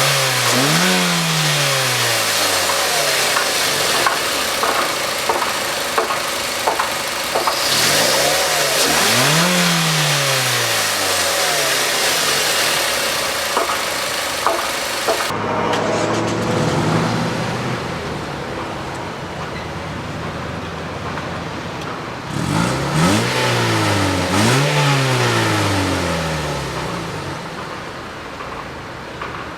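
2006 Mazda 6 engine revved while parked: the pitch climbs and falls back to idle once at the start, again about nine seconds in, then twice in quick succession later on, idling steadily between.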